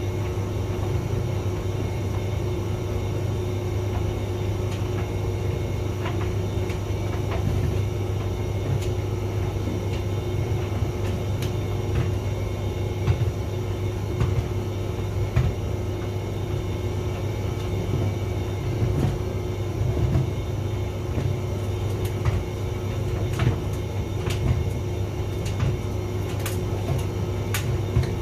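Hotpoint vented tumble dryer running: a steady motor-and-drum hum with a tone in it, and scattered light knocks that come more often in the second half.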